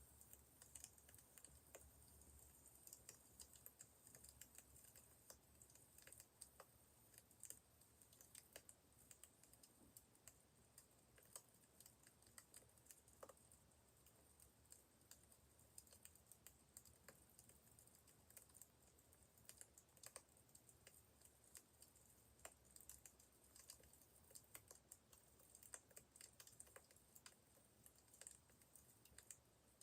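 Faint crackling of a burning wood fire: irregular small pops and snaps over a steady hiss.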